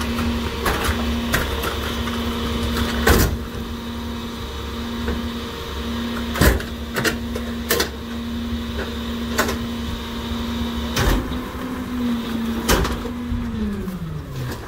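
NewWay rear-loader garbage truck running its packer hydraulics with a steady hum while heavy trash cracks and bangs in the hopper. The hum falls in pitch near the end.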